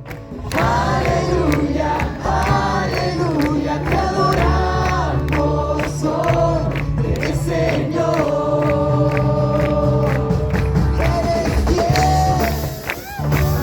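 A group of voices singing a song together over music with a steady bass line.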